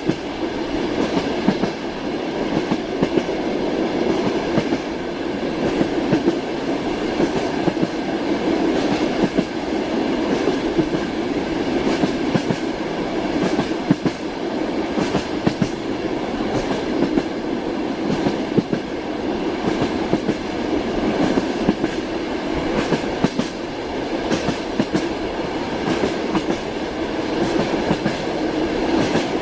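Moving train, heard from inside a carriage: a steady rumble with the wheels clacking repeatedly over the rail joints.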